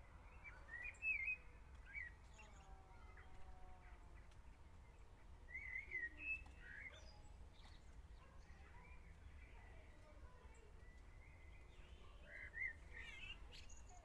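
Faint, sparse chirps of small birds, in short clusters about a second in, around six seconds and near the end, over a low steady hum.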